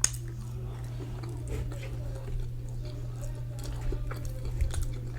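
Close-miked chewing of ramen noodles, with small wet mouth clicks and a sharp click right at the start over a steady low hum.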